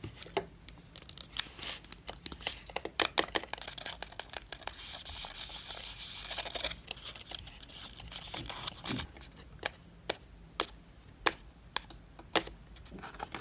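Blind-box packaging being handled and torn open: crinkling and tearing with many sharp clicks and taps, and a longer tearing stretch about four to seven seconds in.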